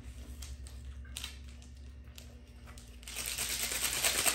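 A few light clicks and taps, then, about three seconds in, a plastic packet starts crinkling loudly as it is handled.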